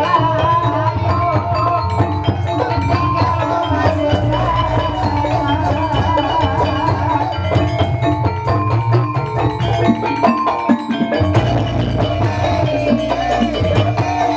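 Live gamelan music for an ebeg dance: mallet-struck keyed instruments playing over drums, with a wavering melodic line above.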